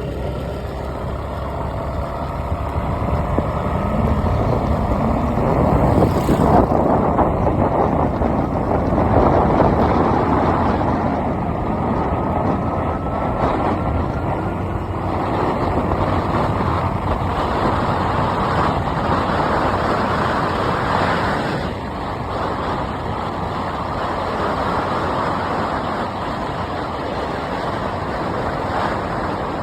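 Vehicle driving along a road, with steady engine rumble and road noise.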